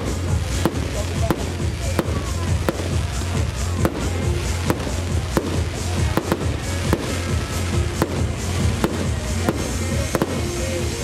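Fireworks display: aerial shells launching and bursting in a continuing run of sharp bangs, roughly one to two a second.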